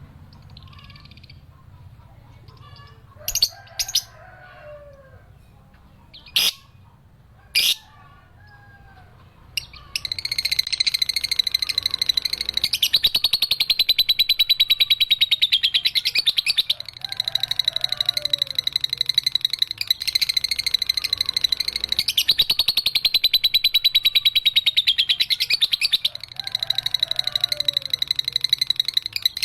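Lovebird giving its long 'ngekek' chatter: a very rapid, high-pitched trill of many pulses a second, held for several seconds at a stretch with only short breaks. Before it starts, about a third of the way in, there are only a few single sharp chirps.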